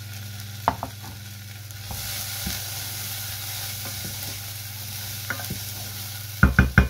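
Diced onion and garlic frying in oil in a saucepan, with paprika being stirred in with a wooden spoon: a steady sizzle that grows louder about two seconds in, with occasional scrapes and knocks of the spoon. Several quick, sharp knocks come near the end.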